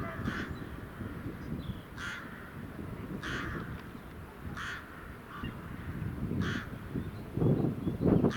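A crow cawing, about five harsh caws spaced a second or two apart, over a low rumble that grows louder near the end.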